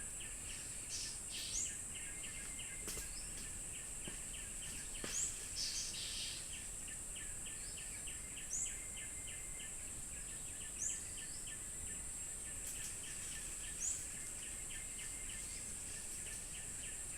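Forest ambience picked up by a camera trap: a steady high-pitched insect drone, with a rapid run of ticks at about five a second. Short rising chirps sound every two or three seconds.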